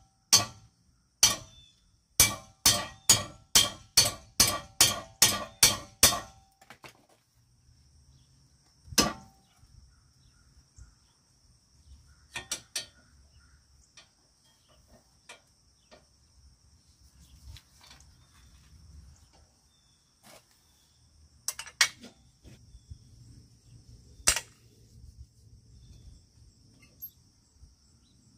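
Sharp metallic knocks with a ringing tone, struck about twice a second for a few seconds and then singly now and then, as metal parts are knocked during work on removed brake pads. Crickets chirp steadily throughout.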